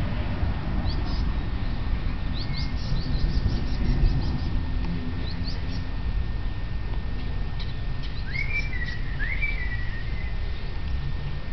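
Songbirds chirping in quick high runs, then a bird whistling two short phrases that rise and then fall, near the end, over a steady low rumble.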